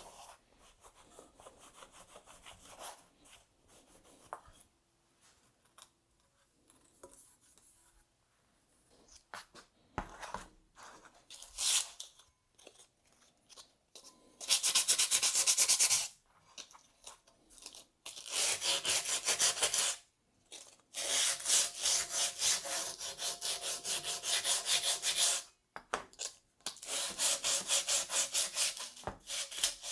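Sandpaper rubbed by hand over a rusty steel snowmobile exhaust in fast back-and-forth strokes. It comes in several bursts of a few seconds each, loudest in the second half, after quieter handling noises.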